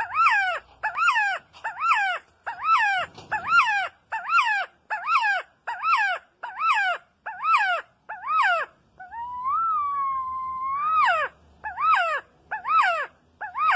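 A bird calling over and over: a quick run of loud notes, each rising and then falling in pitch, about one and a half a second. A single longer drawn-out call breaks the run about two thirds of the way in and rises at its end, and then the short notes start again.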